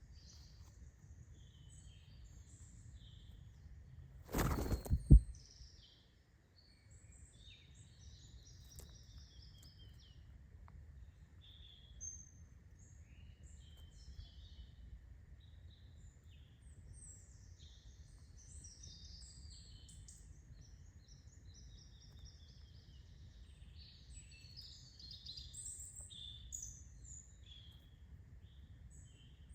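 Small songbirds chirping and calling, with short varied calls scattered throughout over a steady low background. About four seconds in comes one loud, short knock or thump lasting under a second, the loudest sound here.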